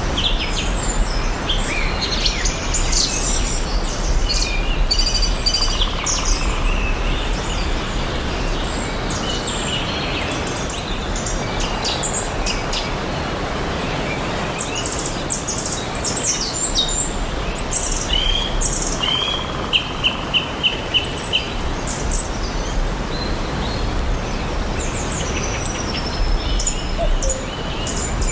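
Several songbirds chirping and singing over a steady outdoor background hiss. About two-thirds of the way in, one bird gives a quick run of about six repeated notes.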